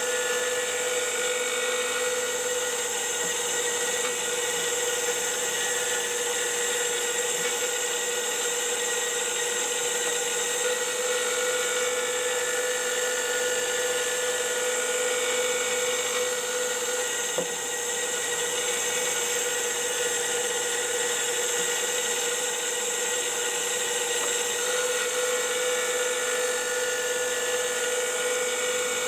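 SGS-612 benchtop surface grinder running steadily with a constant high whine, with one brief click a little past halfway.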